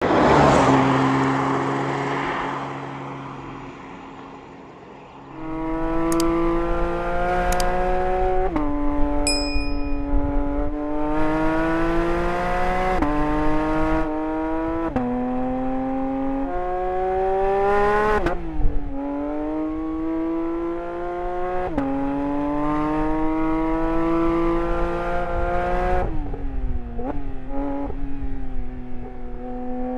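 Porsche 911 GT3 (992) with its naturally aspirated flat-six engine, opening with a loud burst that fades over about five seconds. The engine then runs under load, its pitch climbing slowly and dropping at each of several gear changes.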